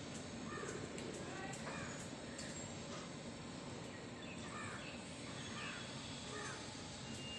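Birds calling: short, downward-sliding calls that recur every second or so over a faint, steady background hiss.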